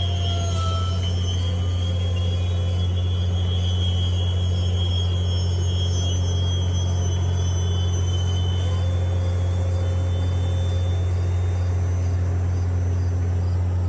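Freight train's diesel locomotive running with a steady low rumble, while thin high-pitched wheel squeals from the slowing train fade away about two-thirds of the way through.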